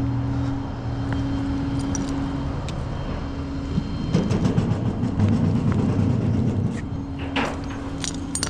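Tow truck's engine running at a steady pitch, with a rougher, louder rumbling stretch in the middle as it works under load. A few sharp clicks near the end.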